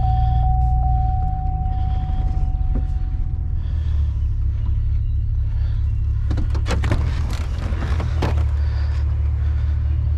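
Pickup truck engine running at low speed, a steady low rumble. A thin steady whine sounds for the first few seconds, and a few knocks and rattles come about six to eight seconds in.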